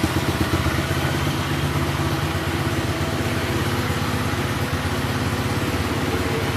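Quad bike (ATV) engine idling steadily, at an even, unchanging speed.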